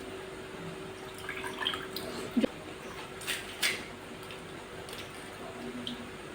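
Fuchka (pani puri) being eaten: small wet crunches of the crisp puri shells and slurps of the sour tamarind water, with two sharp clicks around the middle.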